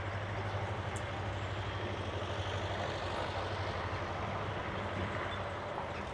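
Steady background rumble with a low hum and hiss, like vehicle noise; a faint click about a second in.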